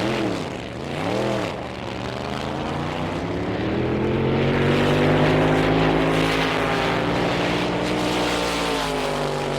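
Drag racing car engine blipping the throttle twice, then running at full throttle in one long sustained pull, its pitch climbing and then holding high.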